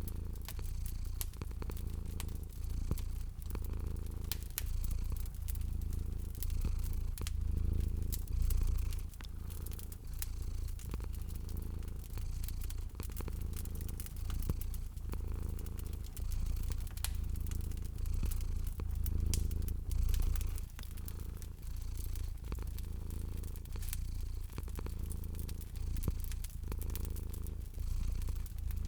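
Cat purring in a steady low rumble that swells and eases with each breath, with a fire crackling over it in many small sharp pops and ticks.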